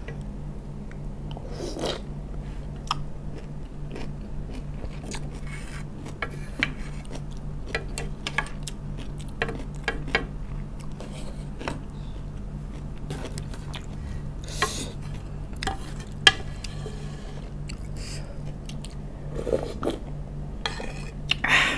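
Close-miked chewing of crunchy pickled vegetables, with scattered clicks and scrapes of a wooden spoon and fork against a black skillet. Near the end she slurps the sour broth from the spoon. A steady low hum runs underneath.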